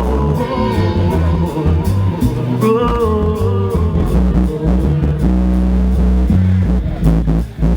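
Live reggae band playing a bass-heavy groove, with long held melodic notes above the bass line.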